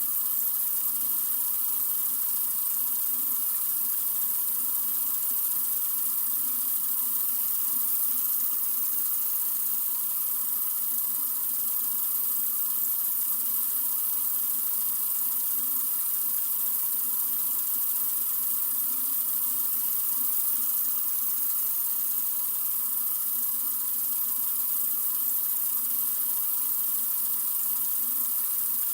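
Sink faucet running in a steady, continuous stream: an even, bright hiss of flowing water that does not change.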